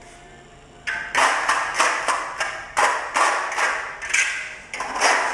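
Hand trowel scraping a fast-setting cement patch across the concrete floor in quick repeated strokes, about two to three a second, starting about a second in.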